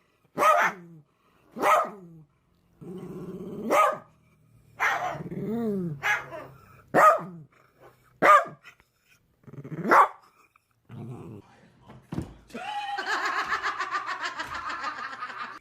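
Dog barking, about seven single barks spaced a second or two apart, then a longer rough, rasping sound for about three seconds near the end.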